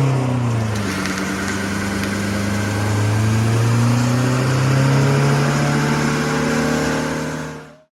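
Vehicle engine running under load, its pitch dropping in the first second and then climbing slowly and steadily; the sound cuts off abruptly near the end.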